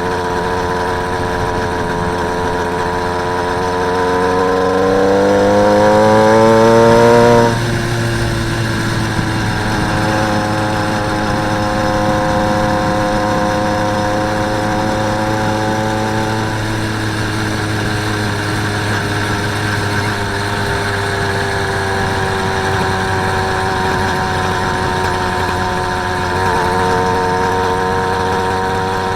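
Small engine of a motorised bicycle running under way. Its revs climb from about four seconds in, drop suddenly a few seconds later as the throttle is let off, then hold steady and pick up slightly near the end.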